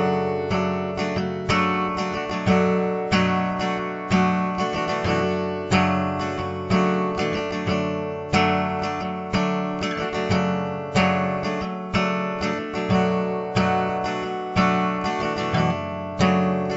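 Acoustic guitar strummed in a steady rhythm with no singing: an instrumental break between verses of the song.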